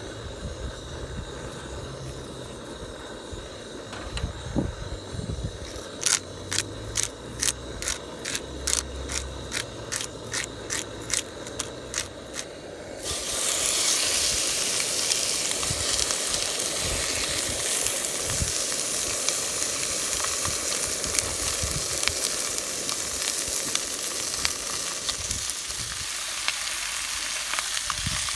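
Food frying in a hot pan: a loud, steady sizzle with fine crackles that starts abruptly about halfway through. Before it, a run of sharp, evenly spaced clicks, about three a second, for some seven seconds.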